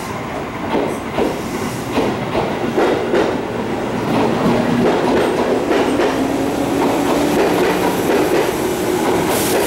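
Tobu 60000 series electric train arriving slowly at a platform, its wheels clacking over the rail joints. A low steady drone from the train comes in about halfway.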